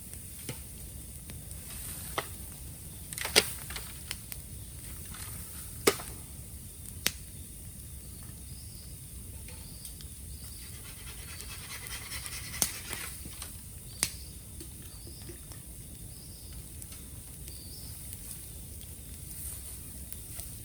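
Bamboo burning in an open bonfire: a steady low fire noise with sharp crackles and about six loud pops spread through.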